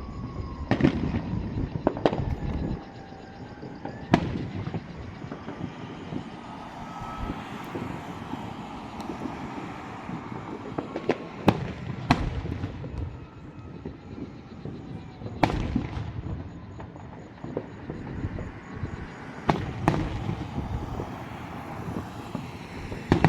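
Fireworks going off, about nine sharp bangs at uneven intervals, two of them coming in quick pairs.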